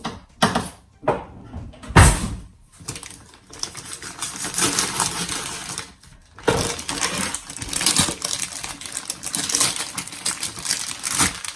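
Plastic bag crinkling and rustling as a packaged whole chicken is handled, with a single knock about two seconds in.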